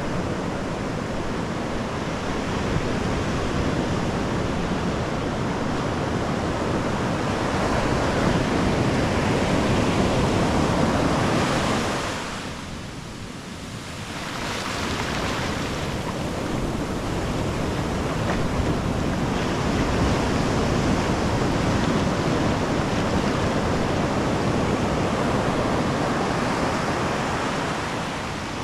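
Ocean surf breaking and washing up the beach in a continuous rush. It eases to a brief lull about twelve seconds in, then builds again with the next waves.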